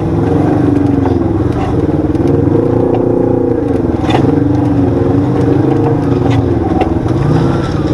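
Side-by-side UTV engine running under throttle, its pitch rising and falling as the throttle changes, with a few short knocks and rattles.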